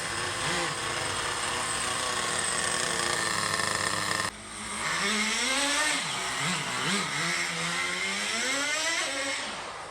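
Small nitro (glow-fuel) engines of radio-controlled cars running at high revs. After a sudden break about four seconds in, the engine is revved up and down repeatedly, its pitch swooping and climbing toward the end.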